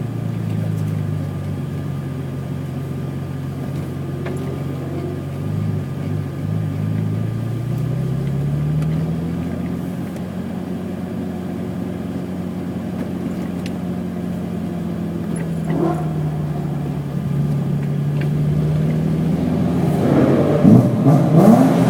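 BMW E28's 3.6-litre engine pulling through the gears on track. Its pitch climbs about a third of the way in, holds steady for a while, drops, then rises again and gets louder near the end.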